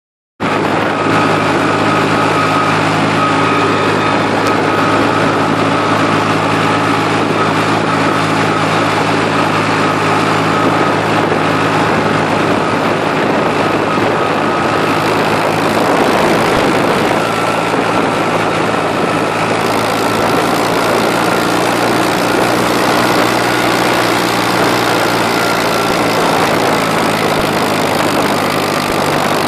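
McCormick 523 tractor's diesel engine idling steadily, with a faint high whine running over it.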